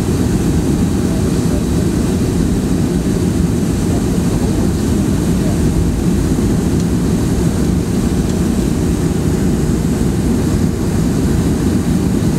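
Steady low roar of a Boeing 737-300's CFM56-3 jet engines and rushing air, heard from inside the cabin during the landing, with no distinct bumps or changes.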